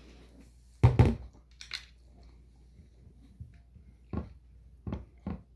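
Knocks and scrapes of a blender jar and utensil as cheesecake batter is scraped out into a bowl: a few sharp knocks, the loudest about a second in, and several more near the end.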